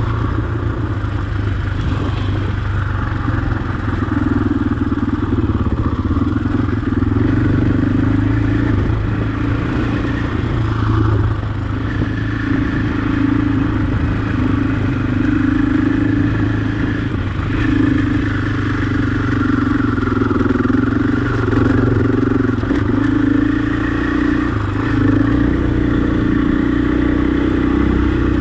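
Husqvarna enduro dirt bike engine running under way, holding a fairly steady pitch with small rises and dips as the throttle changes.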